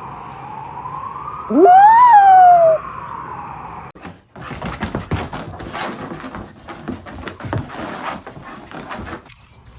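A dog howling along with a wailing siren. The siren slowly rises and falls, and the dog gives one howl about a second and a half in, sliding up and then falling away. Near four seconds the sound cuts to a clatter of scattered knocks and rustling.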